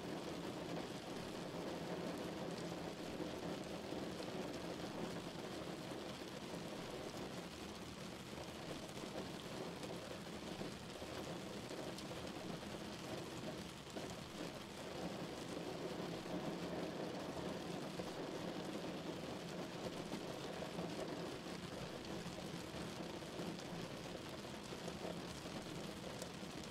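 Steady rain falling, an even, dense patter with no let-up.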